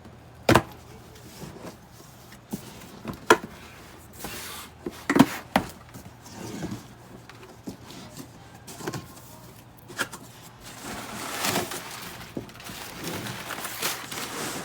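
Cardboard shipping box being opened and handled: several sharp knocks and thumps, then a longer stretch of rustling from about eleven seconds in.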